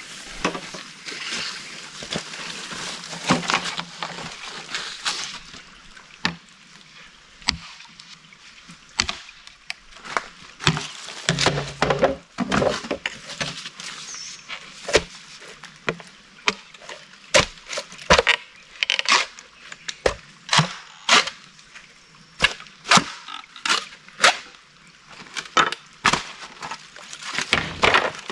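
A run of sharp knocks or clacks, irregular at first and then coming about one or two a second through the second half, after a rushing hiss in the first few seconds.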